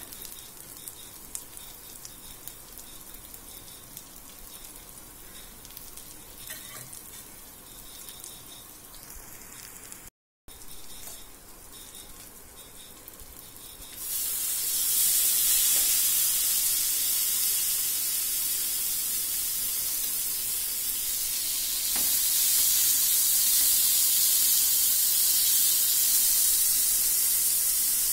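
Dried fish, garlic and shallots frying in hot oil in a pan: a soft crackling sizzle with small clicks from the spoon. About halfway through, chopped tomatoes go into the oil and the pan breaks into a much louder, steady hissing sizzle as their juice hits it, which carries on while the mixture is stirred.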